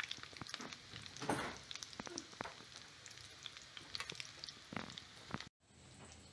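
Meatballs frying in shallow oil in a pan: a steady sizzle with scattered crackling pops, breaking off abruptly near the end.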